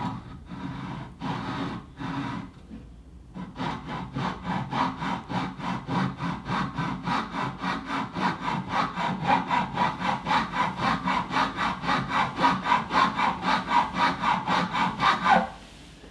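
Hand saw cutting into the wooden joint between an old oud's neck and its soundboard, a first cut for resetting the neck against string buzz. A few tentative strokes start the cut, then after a short pause comes a long run of steady back-and-forth strokes, about three or four a second, which stops abruptly near the end.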